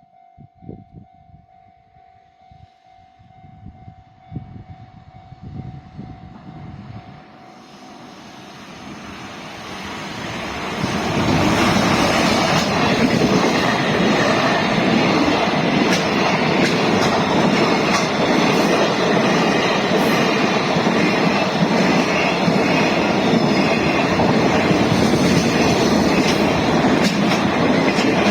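Freight train approaching and then passing close by: faint at first, growing from about eight seconds in, then loud and steady with the wagons' wheels clattering over the rails from about eleven seconds on.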